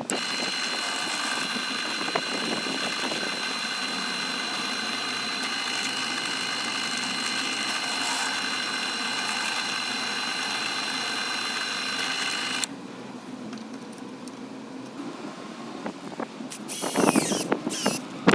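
Angle grinder motor driving a homemade belt grinder, running at a steady high whine, which stops suddenly about two-thirds of the way through. Near the end there is a short, loud burst of a higher, shifting whine.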